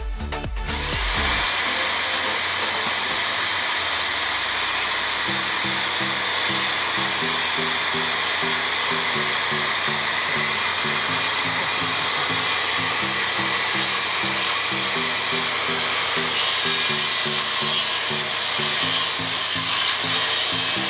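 Handheld circular saw starting up about a second in and running steadily with a high whine while cutting, winding down shortly before the end. Background music with a steady beat plays underneath.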